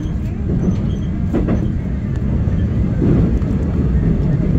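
Commuter electric train of Seoul Subway Line 1 running, heard from inside the car: a steady low rumble of wheels on the rails, with a few light knocks.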